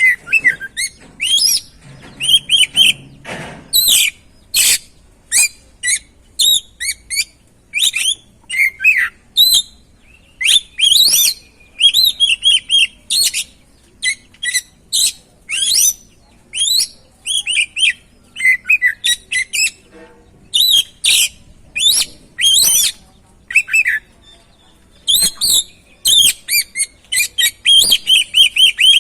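Oriental magpie-robin (kacer) singing a loud, varied song of short whistles, chirps and quick trills, phrase after phrase with brief gaps between them.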